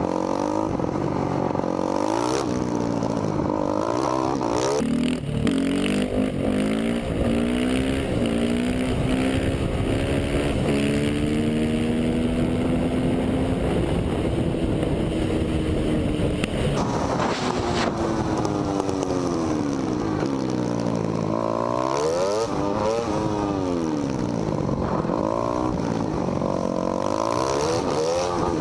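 Dirt bike engines revving and running at speed, their pitch repeatedly rising and falling with the throttle, with a long held run in the middle.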